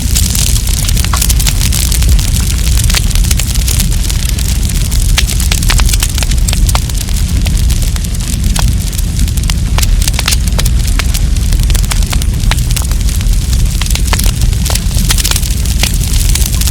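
Wood campfire burning, with frequent sharp, irregular crackles and pops over a steady low rumble.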